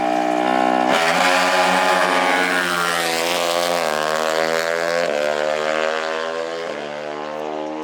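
Off-road racing engine running at high revs with a buzzing pitch that jumps abruptly several times, rising about a second in, then stepping down in stages.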